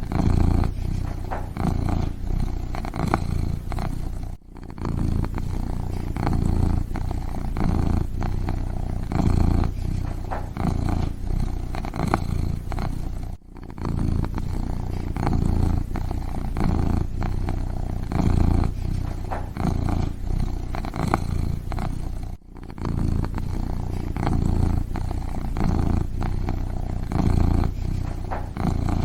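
Kitten purring steadily and close up, a low rhythmic rumble. It breaks off briefly three times, about nine seconds apart.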